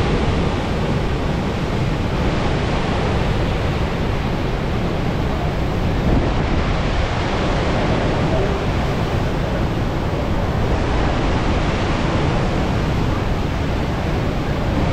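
Steady, loud rush of floodwater pouring through a dam's open spillway gates, an unbroken roar with no change in level.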